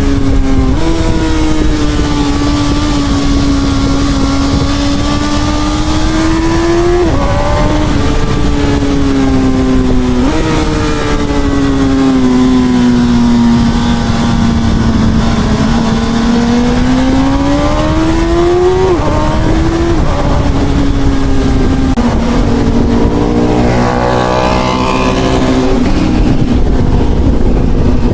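Honda CB1000R inline-four motorcycle engine running under way, its pitch slowly rising and falling with the throttle, with a few sudden jumps in pitch where gears change, over a steady rush of wind noise.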